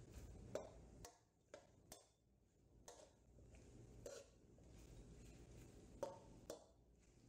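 Slotted metal spoon knocking and scraping against a metal karahi while stirring pieces of chicken and tomato: about eight faint, irregular clinks.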